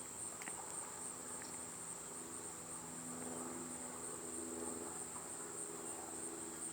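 Steady, unbroken high-pitched trilling of an insect chorus, such as crickets, with a few faint short bird chirps near the start.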